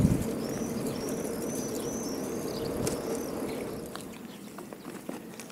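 A small bird chirping, a quick run of about six high, arched chirps in the first three seconds, over the low rumble of a passing vehicle that fades away.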